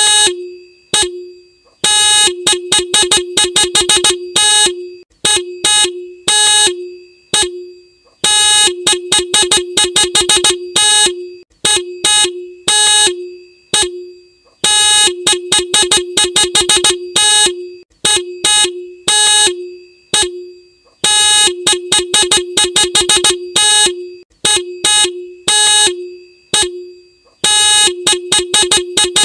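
Motorcycle horn sounded in a repeating pattern: runs of rapid short beeps alternate with longer single honks, all on one steady pitch.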